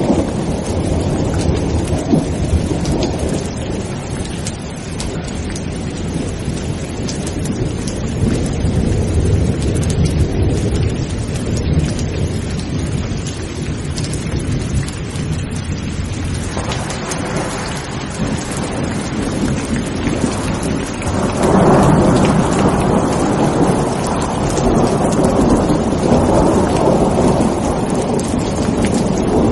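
Thunderstorm: steady heavy rain with thunder rumbling low and continuously. The thunder swells louder a little past halfway and again about two-thirds of the way through.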